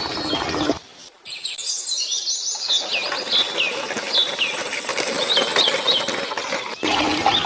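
Small birds chirping: a run of short, quick chirps that fall in pitch, over a steady hiss. A loud noisy burst opens the stretch and another comes in near the end.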